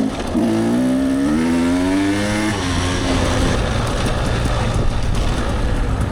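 Dirt bike engine under throttle: its pitch climbs for about two seconds, drops around two and a half seconds in, then holds steady over a constant low rumble.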